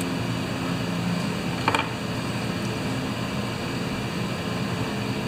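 Steady mechanical hum of a fan running in a small workshop, with a single light click about a third of the way in.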